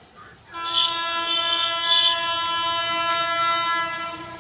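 Electric locomotive's air horn sounding one long, steady blast of about three and a half seconds as the train approaches, starting about half a second in and easing off near the end.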